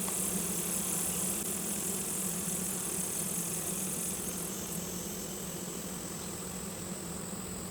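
Honeybees of an opened hive buzzing together in a steady, low hum.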